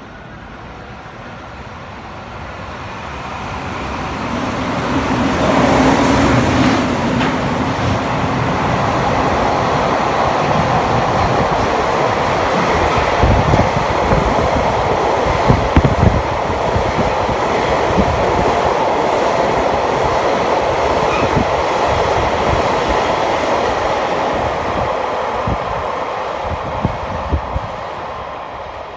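Freight train hauled by an electric locomotive passing close by. The noise builds over the first few seconds as the locomotive goes past, then holds as a long steady rumble of wagons with wheels clacking over rail joints, and eases off near the end.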